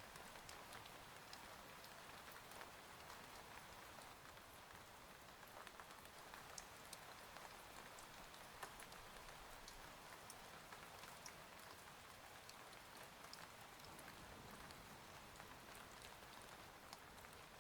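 Faint, steady rain ambience: an even patter sprinkled with many small, sharp drop ticks, as of rain on a window.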